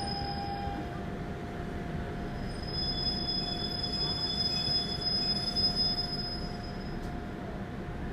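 Daegu Metro Line 1 train running, heard inside the car: a steady rumble of wheels on rail with a faint steady whine above it.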